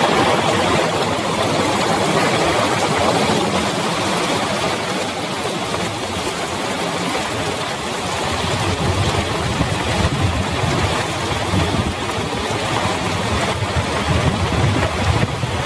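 Heavy rain falling steadily. A low engine sound from a motor vehicle builds in the second half.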